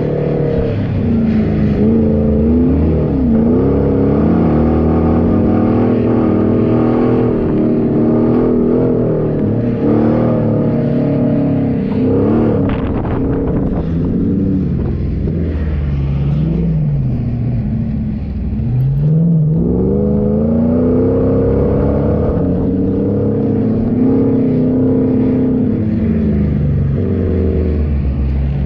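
Four-wheel-drive vehicle's engine running off-road, revving up and down again and again, its pitch rising and falling every few seconds with a deep rise about two-thirds of the way through.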